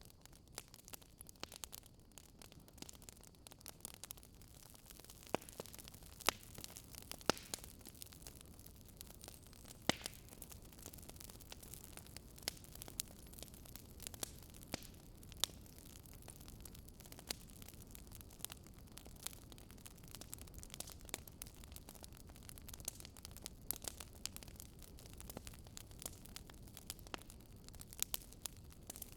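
Wood fire burning in a fireplace, with irregular sharp crackles and pops over a low steady hiss and rumble.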